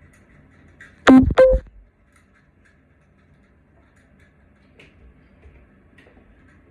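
Two short, loud calls with a clear pitch, a fraction of a second apart, about a second in, followed by a few faint clicks.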